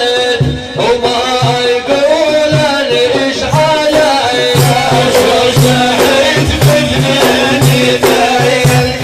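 Sufi dhikr: a lead singer chanting a wavering melody over a steady beat of drums. Sharp, bright percussion strokes join about halfway through.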